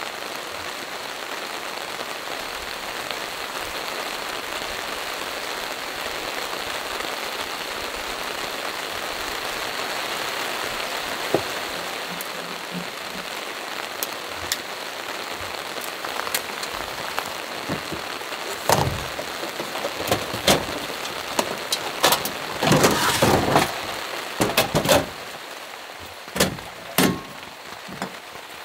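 Steady heavy rain falling on leaves and ground. About two-thirds of the way in, the rain thins, and a run of sharp clicks and knocks of gear being handled takes over.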